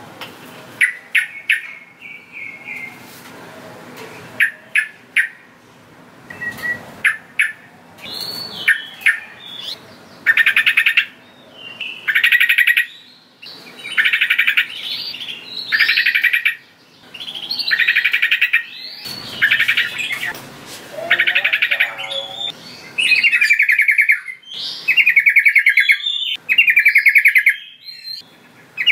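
Sooty-headed bulbul (trucukan) singing: short chirps at first, then a run of loud, bubbly phrases about a second long, repeated every second or two.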